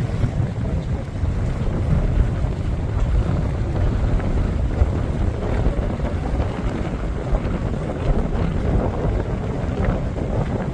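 Strong wind buffeting the microphone: a constant low rush that swells and eases in small gusts. It is the outflow wind ahead of a thunderstorm's shelf cloud.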